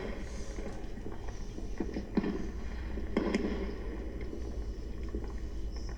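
Fireworks going off at a distance: a few sharp cracks and pops with short echoing tails, the loudest about three seconds in, over a steady low rumble.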